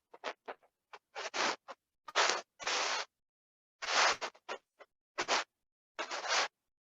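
Short, irregular scratching and rubbing strokes close to the microphone, each starting and stopping abruptly.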